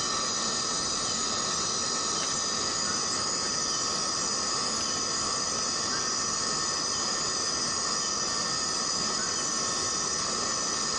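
Forest cicadas in a steady, unbroken chorus: a shrill drone of several held high pitches over a duller hiss.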